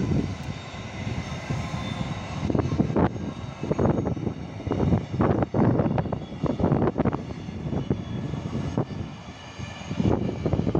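Freight train of empty container flat wagons rolling past, a steady low rumble broken by irregular clattering of wheels on the rails.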